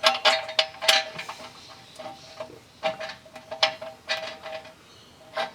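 Irregular light metallic clinks and knocks of exhaust parts and hardware being handled during fitting, a dozen or so sharp taps over a faint steady tone.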